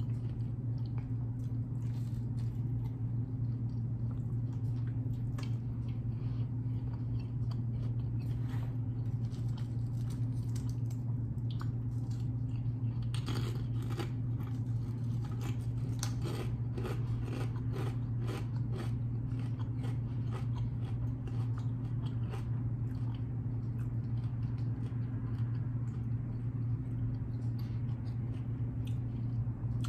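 A person chewing and crunching mouthfuls of a tuna wrap with kettle chips: many small irregular crunches and mouth clicks, over a steady low hum.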